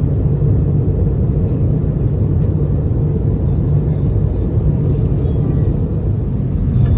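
Steady low rumble of an Airbus A320 airliner's cabin during descent, the engine and airflow noise heard from inside the cabin.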